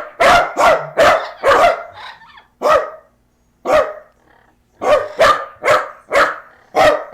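Dog barking repeatedly, about a dozen sharp barks in quick succession with a brief pause a little past the middle.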